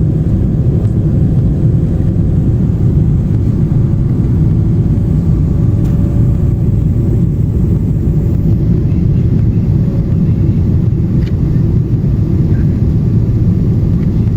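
Steady low rumble of a Boeing 777-300 airliner heard inside the passenger cabin: engine and airflow noise with a faint constant hum over it.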